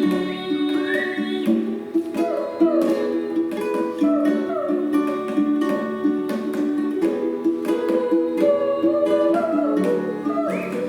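Acoustic music: a requinto guitar plucked in quick notes under held, sliding melody notes.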